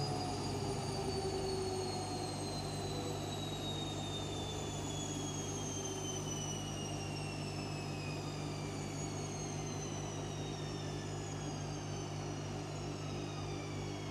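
Washing machine's drum motor whining as it slows down, the whine falling steadily in pitch, over a steady low hum.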